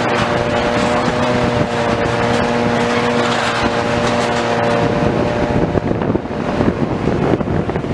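Heavy demolition machinery running with a steady engine hum. About five to six seconds in, the hum gives way to a rougher, clattering rumble.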